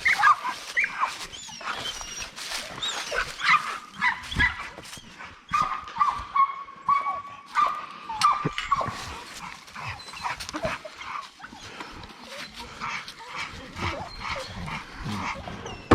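A dog whining, with high, drawn-out tones, one held for about two seconds midway, among scattered clicks and knocks.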